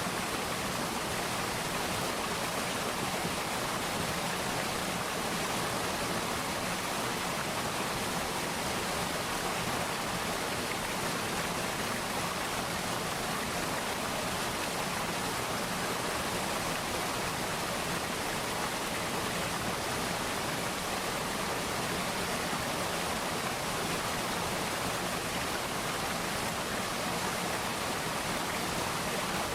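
Mountain stream water flowing and splashing over rocks, a steady rushing that does not change.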